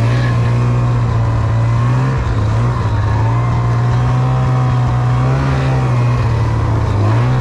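Snowmobile engine running steadily while under way, its pitch dipping slightly about two seconds in and rising a little again near the end.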